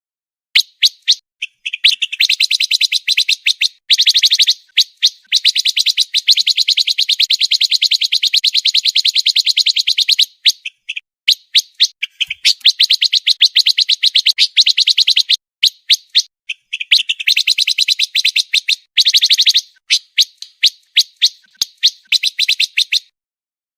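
Pancawarna bird song: fast, dense rattling trills of rapidly repeated high notes, broken into long unbroken runs of several seconds and shorter choppy bursts, ending a little before the pause.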